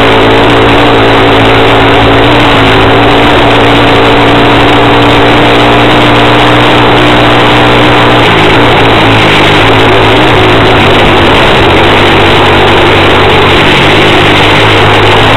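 Lifan 110cc pit bike's single-cylinder four-stroke engine running loudly, its note shifting about halfway through.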